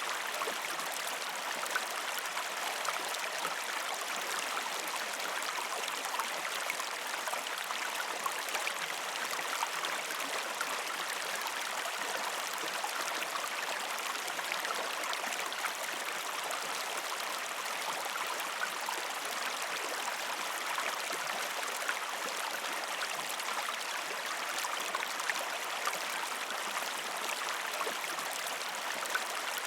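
A gentle river stream flowing over rocks: a steady, even rush of water with fine splashing throughout.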